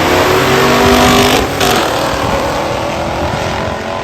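Classic muscle cars' V8 engines at full throttle, racing down the drag strip, with a brief loud burst of noise about a second and a half in.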